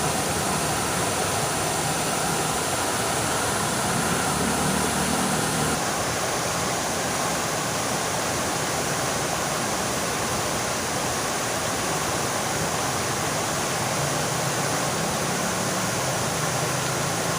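Fountain water splashing in a steady, continuous rush, with a slight change in its sound about six seconds in.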